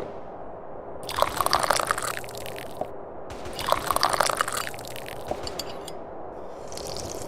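Tea being slurped loudly from a cup: two slurps of about a second each, roughly two and a half seconds apart, over a steady faint background hum.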